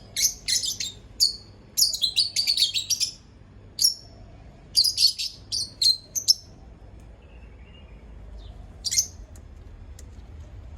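Bird chirping in quick clusters of short high-pitched calls, falling silent after about six seconds, with one more call near the end.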